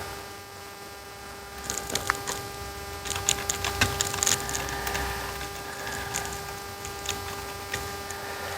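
Foam-tip swab scrubbing flux residue off a circuit board: a run of small scratchy clicks and ticks from about two seconds in until about four and a half, over a steady electrical hum.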